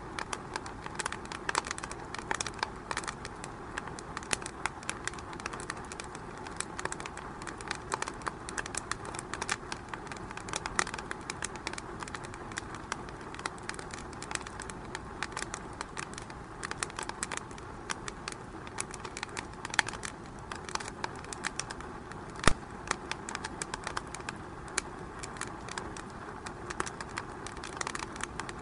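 Wood fire burning in a fireplace, crackling with irregular sharp pops over a steady hiss, with two louder pops about two-thirds of the way through.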